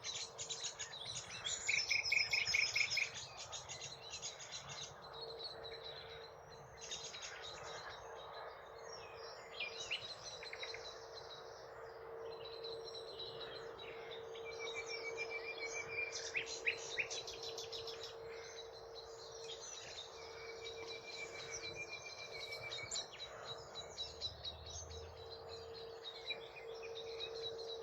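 Common nightingale singing: varied phrases of rapid repeated notes and trills, the loudest about two seconds in, over a steady low hum.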